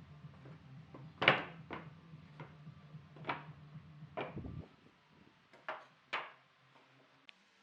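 A series of sharp wooden knocks and clunks, about eight, irregularly spaced, like pieces of wood being handled and set down on a workbench. A low hum runs under the first half and stops a little past halfway.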